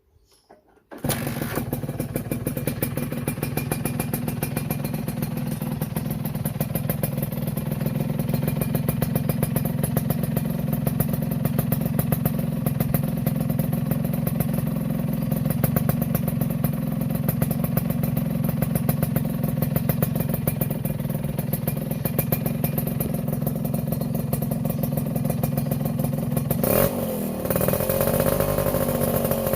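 Suzuki Satria 120's single-cylinder two-stroke engine breathing through a 'standar racing' aftermarket exhaust, starting up about a second in and then idling steadily. Near the end it is revved once briefly and drops back to idle.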